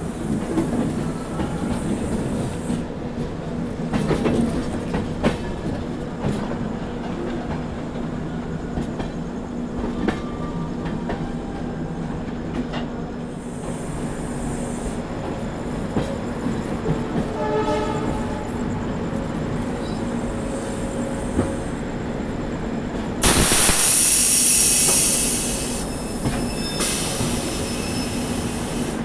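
Duronto Express train running: a steady rumble with scattered clicks of wheels over rail joints. A brief pitched tone comes about 18 seconds in, and a loud hiss lasts about two seconds shortly before the end.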